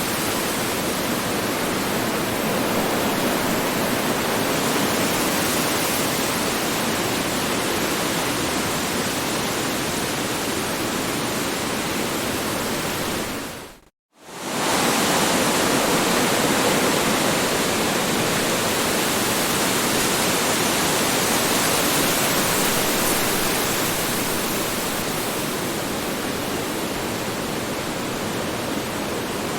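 Strong wind rushing steadily, a dense even roar. About halfway through it cuts out for a moment and swells straight back in.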